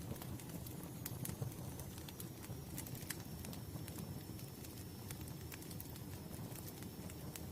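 Wood fire crackling: irregular sharp pops and snaps scattered over a soft, steady low rumble of burning logs.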